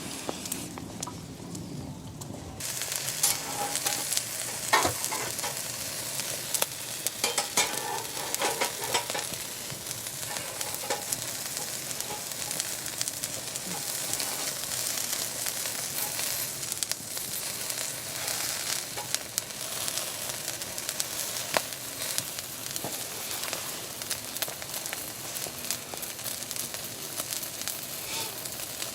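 Food sizzling and frying in a hot pan, starting suddenly about two and a half seconds in, with a steady hiss and scattered pops.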